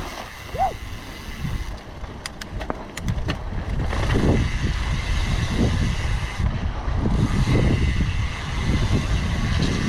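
Wind buffeting the microphone over the rumble of a mountain bike riding down a wet dirt trail, getting louder about four seconds in. A brief squeak near the start and a few sharp clicks between two and three seconds in.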